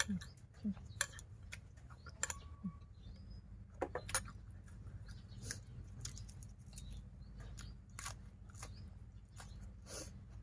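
Close-miked eating sounds: irregular sharp crunches and clicks of chewing crisp raw vegetables and seaweed salad, with light clinks of a spoon and fork, over a low steady hum.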